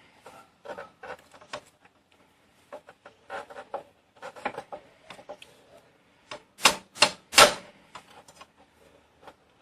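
Motorcycle front brake caliper, with its new pads, being fitted back over the brake disc: a run of light metal clicks and knocks, with three sharp, louder clacks in quick succession about two-thirds of the way through.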